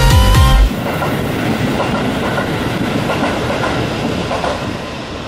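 Electronic music stops suddenly under a second in, leaving a Keihan electric commuter train running along the tracks, its noise slowly getting quieter.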